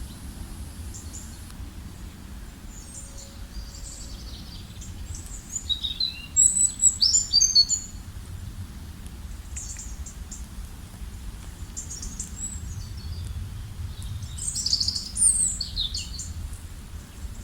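Songbirds chirping and singing in short, scattered phrases, loudest about six to eight seconds in and again near the end, over a steady low background rumble.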